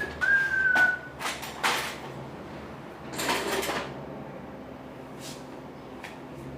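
A short high whistle-like tone falling slightly in pitch, with several sharp knocks and two rustling swishes in the first few seconds, then only a low steady background.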